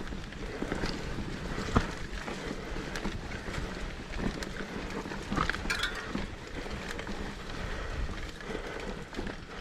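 Mountain bike rolling down a dirt trail: steady tyre and wind noise on the microphone, with scattered clicks and rattles from the bike over bumps.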